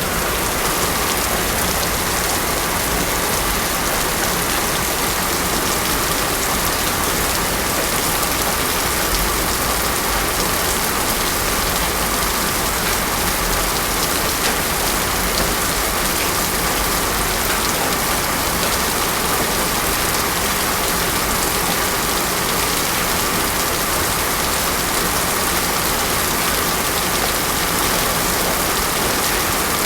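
Heavy rain pouring steadily onto a road surface, an even, unbroken hiss with no thunder. A faint steady tone sits underneath.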